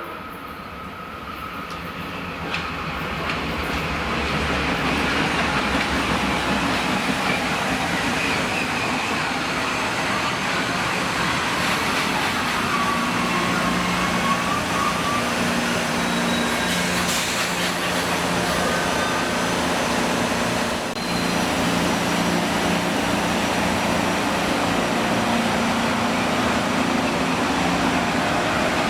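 Passenger train passing on the Hudson Line. Its sound builds over the first few seconds, then holds as a steady loud run of wheels on rails with a low engine hum underneath.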